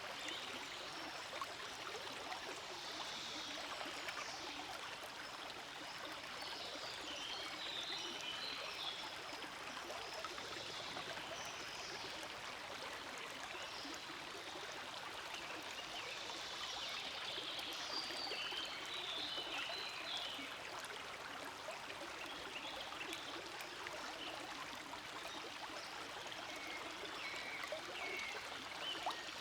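Creek water flowing steadily through a forest, a continuous trickling and gurgling wash with a brighter splashy edge that swells and eases now and then.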